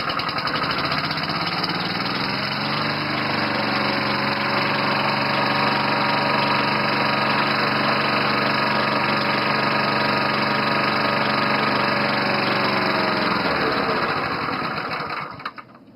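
Vintage Honda HR194 push mower's small engine catches on the pull cord and comes up to speed over the first few seconds. It then runs steadily, and near the end it winds down and stops.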